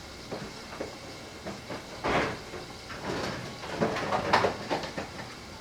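Kitchen handling noises as things are fetched and moved about on a counter: a scrape about two seconds in, then several knocks and clatters near the end.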